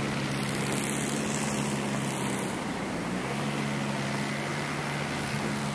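An engine running steadily with a low, even hum, under a steady hiss of outdoor noise.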